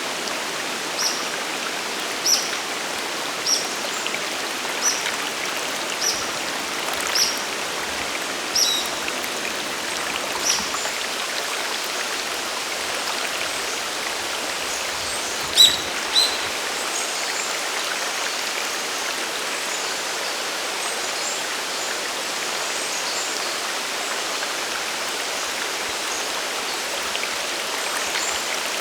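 Waterfall and mountain stream rushing steadily. Over it a bird gives short high call notes about once a second for the first ten seconds, then two louder notes in the middle.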